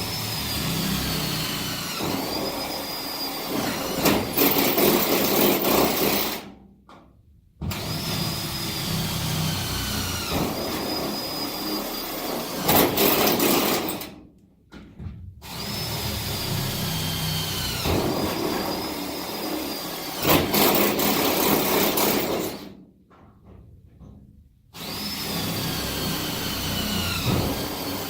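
Cordless drill drilling one hole after another: four runs of several seconds each, split by short pauses, the motor's whine sagging as the bit bites and picking up again.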